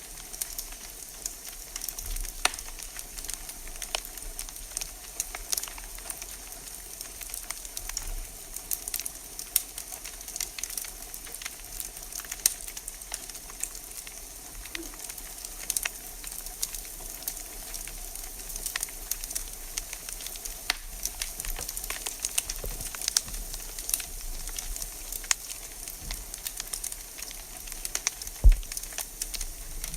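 Wood fire in a fireplace crackling, with a steady hiss and frequent sharp pops and snaps, and one louder dull knock near the end.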